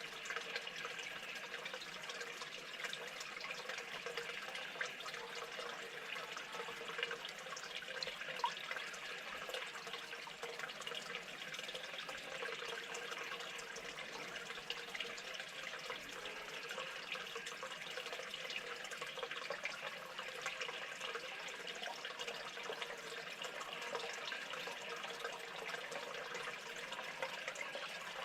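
Steady running water, trickling evenly with small drips and splashes.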